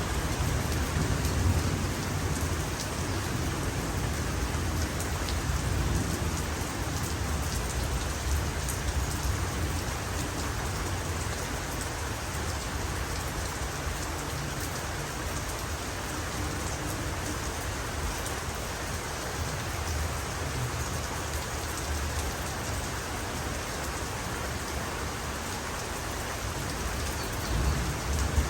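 Steady heavy rainfall, with a low thunder rumble dying away in the first few seconds and the low rumbling swelling again near the end.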